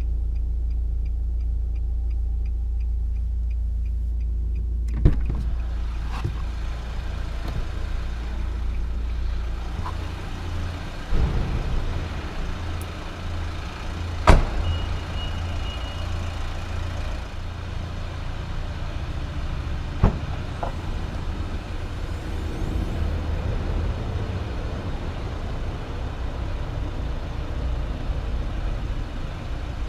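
Nissan Juke's 1.5 dCi four-cylinder turbodiesel running at idle as a steady low rumble, with a faint fast ticking at first. About four seconds in the sound turns fuller and noisier, and several sharp clicks and knocks come over it, the loudest about halfway through.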